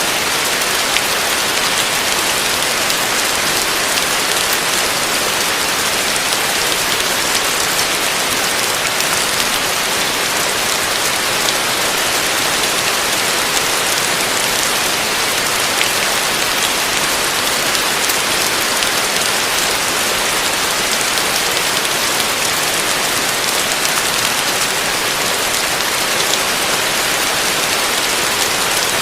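Heavy rain falling steadily: a dense, even hiss with a fine patter of individual drops.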